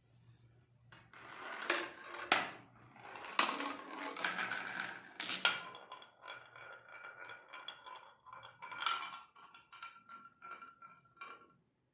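Marbles rolling and clacking down a wooden marble run, with sharp knocks as they drop and hit the pieces. About halfway through a ringing tone sets in under quick repeated ticks, then everything stops just before the end.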